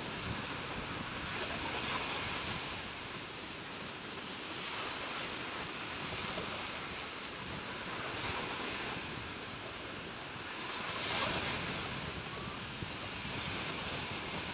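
Sea waves breaking and washing up on the shore, swelling and fading about every three seconds, with wind buffeting the microphone.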